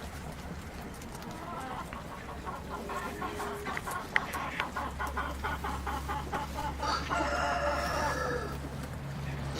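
Chickens clucking in a quick, even run of short calls, about five a second, then a longer drawn-out call near the end.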